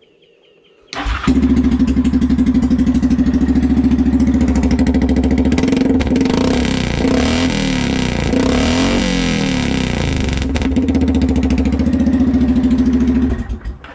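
Straight-piped Yamaha Kodiak ATV's single-cylinder engine starting about a second in and running loud, blipped up and down a few times in the middle, then shut off near the end.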